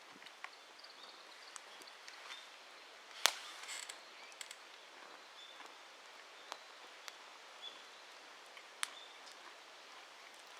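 Wood campfire crackling quietly, with scattered sharp pops every second or so and one louder pop about three seconds in.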